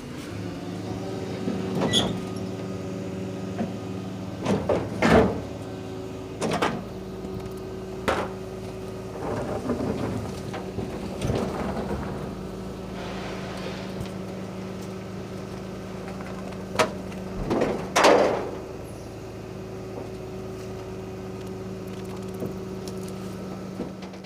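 Rubbish truck running steadily with its hydraulics engaged, while rubbish and bins knock and clatter into the back about ten times, the loudest bangs near the start and about three quarters of the way through.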